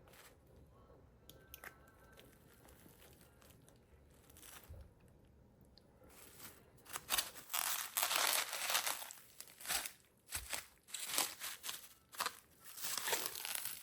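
Handling of perfume packaging: a few quiet seconds with faint clicks, then loud rustling, crinkling and tearing of wrapping from about halfway through.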